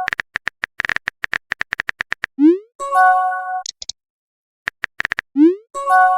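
A short synthesized jingle on a loop that plays about twice: a run of quick clicks, a rising boing-like glide, then a held synth chord topped by a few high blips.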